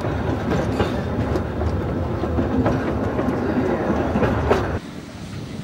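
Train running along the track, heard from aboard: a steady rumble of wheels with scattered clicks and knocks over the rails. It cuts off sharply about a second before the end, leaving quieter wind noise.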